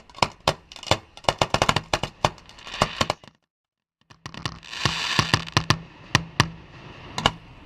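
Fireworks display: a rapid series of sharp bangs from aerial shells bursting, with a stretch of crackle a little past halfway. The sound drops out completely for under a second in the middle.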